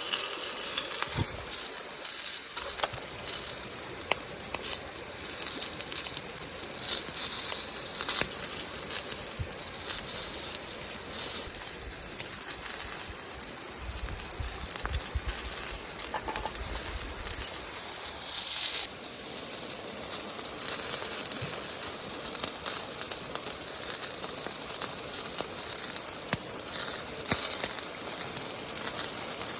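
Wood fire crackling in a small fire stove, with scattered sharp pops over a steady high hiss.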